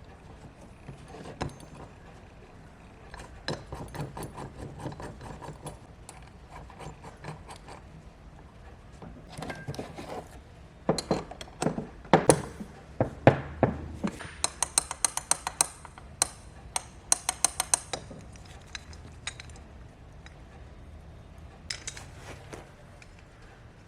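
Small metal parts and tools clinking and clicking as they are handled and fitted, with a few louder knocks about halfway through, then a run of quick ticks.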